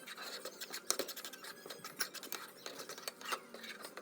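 A quick run of light scratches, clicks and rustles from things being handled close by, a few taps a second.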